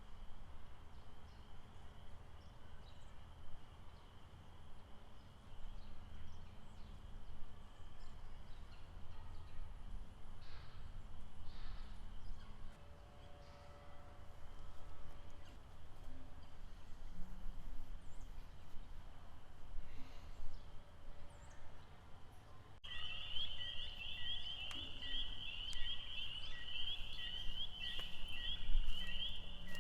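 Outdoor lakeside ambience: a steady low rumble with faint, scattered animal calls. About three quarters of the way through, the sound changes abruptly and a loud, rapid, high-pitched repeating call starts, with a short lower note about every second.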